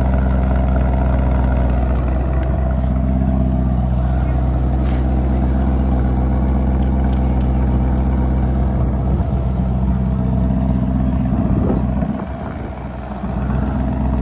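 Lamborghini Urus twin-turbo V8 idling steadily through an Akrapovic exhaust, just after a cold start. Near the end the deep note dips and turns quieter for about a second, then returns.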